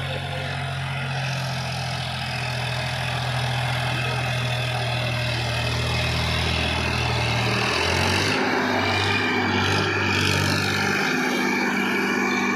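Diesel tractor engine running steadily under way, its low note shifting about eight seconds in and again near the end.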